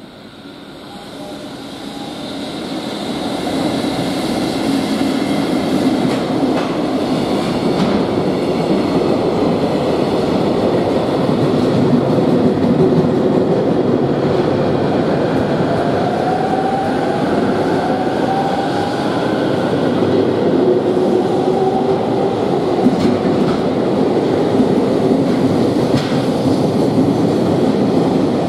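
Trains passing at close range: a container freight train hauled by an EF65 electric locomotive and a commuter train running alongside the platform, with wheels clacking over the rail joints. The sound builds over the first few seconds, then stays loud and steady, with a rising whine about two-thirds of the way through.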